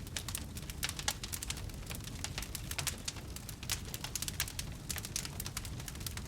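Wood fire crackling: many irregular sharp snaps and pops over a low steady rumble of burning logs.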